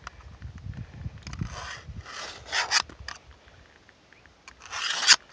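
A tool scraping sawdust and gunk out of a chainsaw guide bar's groove in several strokes, the loudest just before the end.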